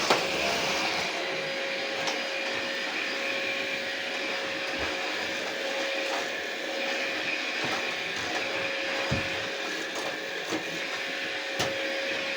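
Philips 7000 Series stick vacuum cleaner running steadily, a constant motor whine over airflow noise, with a few short sharp clicks.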